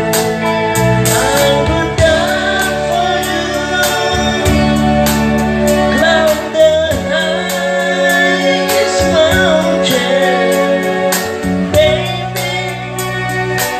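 A band playing a song with a singer's voice over a steady drum beat and held bass notes.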